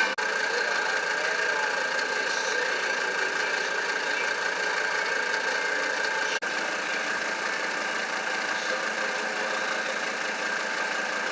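Mercedes C 250 Turbodiesel's five-cylinder diesel engine, running on vegetable oil, idling steadily with a diesel knock. The sound drops out briefly twice.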